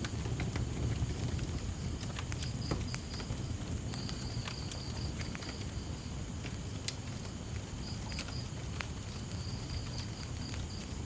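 Wood fire burning with scattered sharp crackles and pops over a low, steady rumble, while crickets chirp in high, rapidly pulsed trains that start and stop every second or two.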